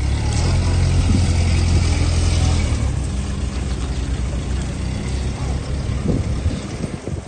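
Toyota forklift's diesel engine running under throttle, loudest for the first three seconds, then easing back to a lower steady run that drops away near the end.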